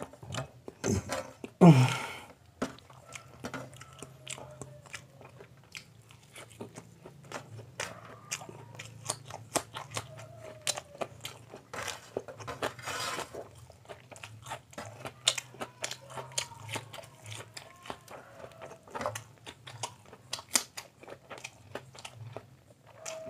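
Close-miked chewing of a mouthful of egg omelette, with many small wet mouth clicks and smacks over a steady low hum. A brief louder vocal sound from the eater comes about two seconds in.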